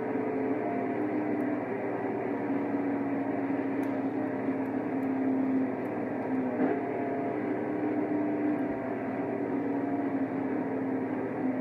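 The 5.5-litre V8 of a 2012 Mercedes-Benz SLK55 AMG, running hard at high speed under sustained acceleration, with road and wind noise. The engine note holds nearly steady, with brief dips about six seconds in.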